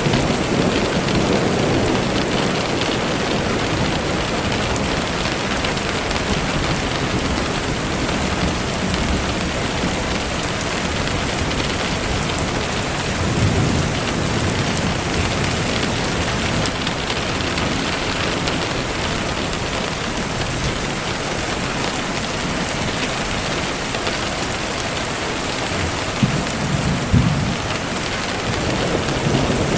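Steady rain falling on a surface, a dense even hiss, with low rumbles of distant thunder swelling at the start, about halfway and again near the end.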